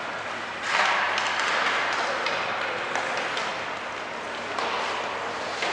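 Ice rink game noise: a wash of crowd and play sound swells suddenly about a second in, with scattered sharp clacks over a steady low hum.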